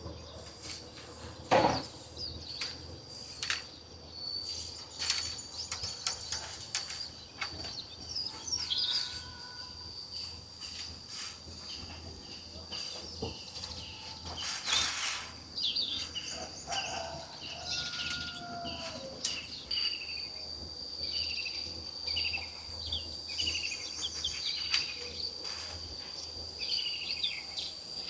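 A steady high-pitched insect drone, with birds chirping in quick repeated calls through the second half. Scattered sharp knocks, the loudest about one and a half seconds in.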